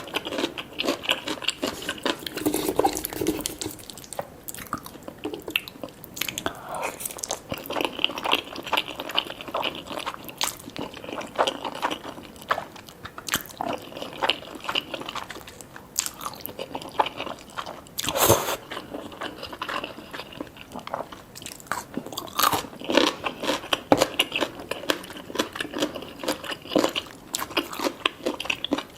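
Close-miked biting and chewing of crispy fried chicken: repeated crunches and crackles at an irregular pace.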